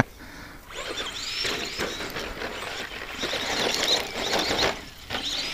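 ECX Circuit stadium truck's 15-turn brushed electric motor and drivetrain whining in short high-pitched rising-and-falling sweeps as the throttle is worked. It dips briefly near the end, then sweeps again.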